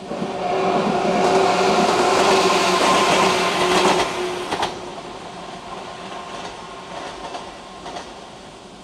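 Train passing a railway level crossing: a loud rush of wheels and running noise with a steady hum for about four seconds, then dying away, with a few sharp clicks near the end.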